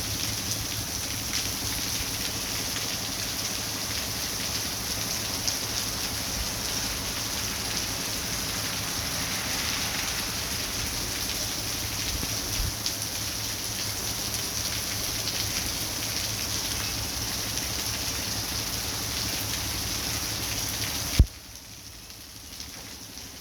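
Heavy rain falling steadily, a dense even hiss with faint scattered drop ticks. Near the end a single sharp knock, after which the rain sounds much quieter.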